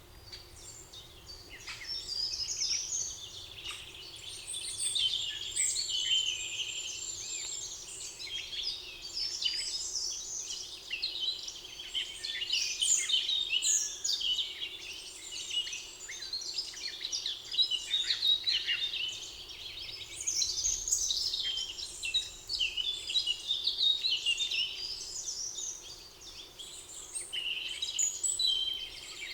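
Many songbirds singing at once in a spring forest, a dense overlapping chorus of high chirps, warbles and trills.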